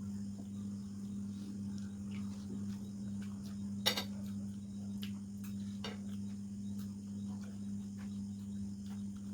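Eating sounds: scattered small clicks and smacks from chewing and handling food, with one sharper click about four seconds in. Under them runs a steady low hum.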